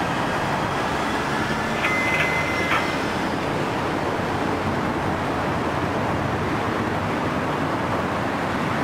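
Steady, dense city traffic noise, with a short high beep about two seconds in.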